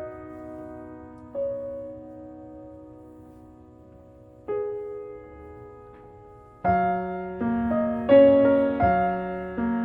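Soft piano background music: a few sustained chords that ring and fade, then from about two-thirds of the way through a livelier run of notes.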